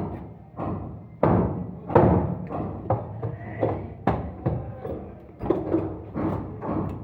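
Irregular heavy knocks on wood, about one to two a second, each with a short ringing tail: hammer blows in carpentry work.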